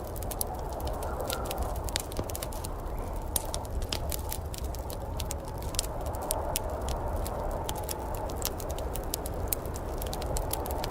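Wood fire crackling in a fireplace, with many quick sharp pops and snaps over a steady low rushing.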